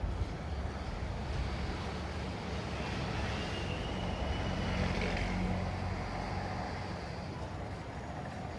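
Street traffic: a motor vehicle passes, its sound swelling to a peak about halfway through and then fading, over a steady low rumble and hiss.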